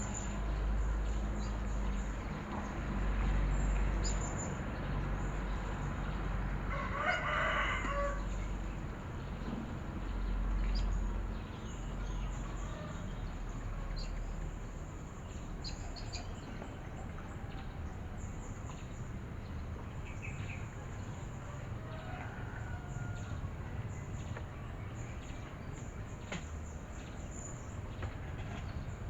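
A rooster crows once, about seven seconds in, a single call of roughly a second, with faint scattered bird chirps and a low rumble around it.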